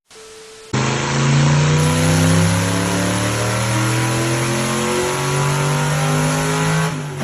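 Motor vehicle engine running hard under acceleration, its pitch climbing steadily for about six seconds, then falling away near the end.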